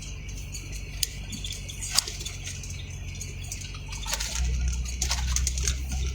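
Scattered raindrops ticking on a vehicle over a low engine hum. The hum grows louder about four seconds in.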